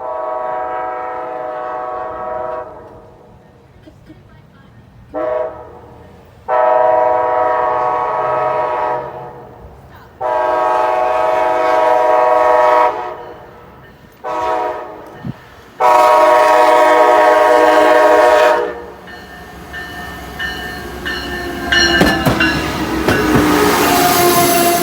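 Amtrak train horn sounding six blasts with a chord of several tones: a long one, a short one, then long, long, short, long, the last four being the grade-crossing signal. About nineteen seconds in the train arrives and passes, its wheels rumbling and clattering on the rails.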